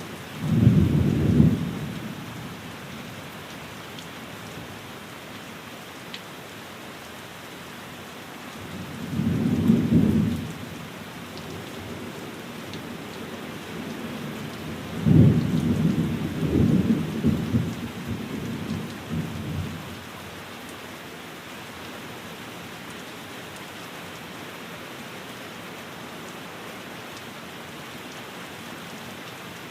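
Steady rain falling, with rolls of low thunder three times: a short one just after the start, another about nine seconds in, and a longer rumbling one from about fifteen to twenty seconds in.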